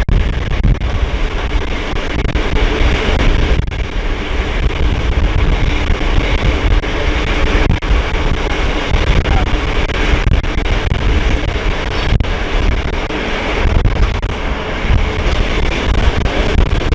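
Train in motion heard on board: steady running noise of a special train hauled by an SU45 diesel locomotive, a low rumble of wheels on rail with engine hum beneath.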